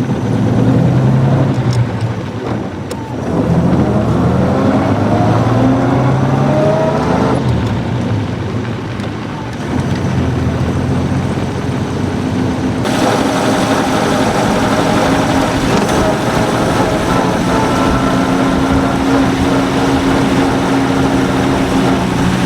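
Vintage car engine running on the road, its pitch rising as it accelerates a few seconds in. The sound changes abruptly several times, then holds a steady engine note through the second half.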